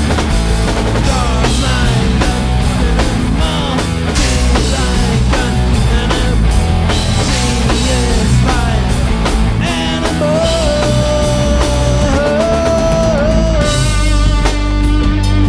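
Four-piece rock band playing live: drum kit, bass guitar and two electric guitars. A melodic line bends up and down over the beat and holds one long wavering note from about ten seconds in.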